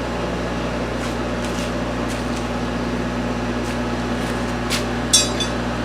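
Steady hum of workshop background noise, with a few faint ticks and one sharper click about five seconds in.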